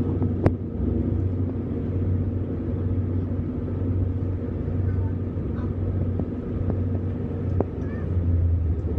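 Passenger train running, a steady low rumble heard from inside the carriage, with a sharp click about half a second in and another near the end.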